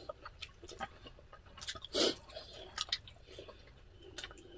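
Close-miked eating sounds of two people chewing mouthfuls of rice: irregular wet smacks and small clicks, with one louder wet smack about two seconds in.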